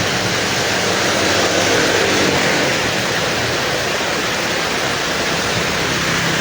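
Heavy rain in strong wind, a loud steady hiss, with a faint low vehicle hum underneath.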